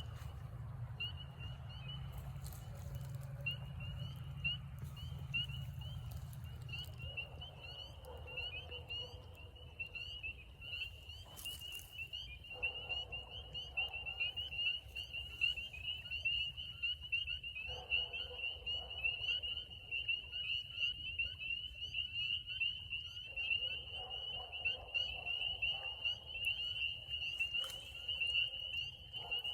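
Chorus of spring peepers: many short, high-pitched peeps overlapping without a break. A fainter, lower calling comes and goes underneath.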